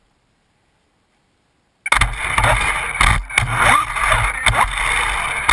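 After about two seconds of silence, a Losi Mini 8ight electric RC buggy starts up suddenly. Its motor whine sweeps up and down in pitch with the throttle, over loud drivetrain and tyre noise and a few sharp knocks.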